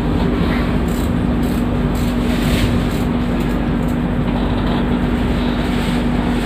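A passenger train running, heard from inside the carriage: a steady rolling rumble with a constant low hum underneath.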